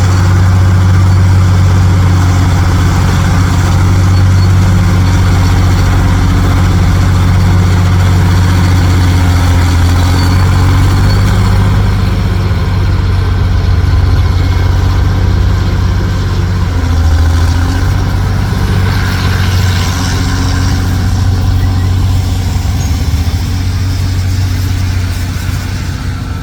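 Heavy diesel truck engine running steadily at an even low pitch, with a brief rushing noise rising over it about twenty seconds in.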